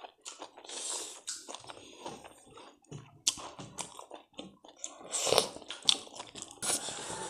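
Close-up chewing and mouth sounds of a person eating rice and curry by hand, with irregular wet smacks and clicks; the loudest come a little over two-thirds of the way through.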